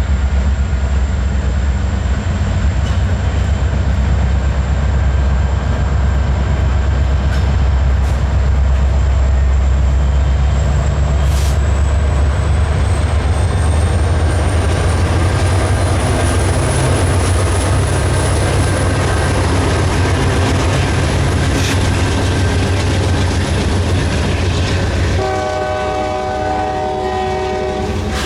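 Intermodal freight train rolling past with a heavy low rumble of locomotives and cars. About three seconds before the end a diesel locomotive's multi-chime air horn starts sounding and holds.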